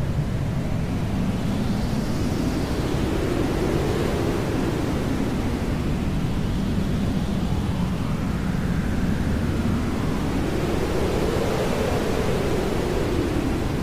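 Hair dryer running steadily: a continuous deep rushing noise with a faint tone that slowly rises and falls every few seconds.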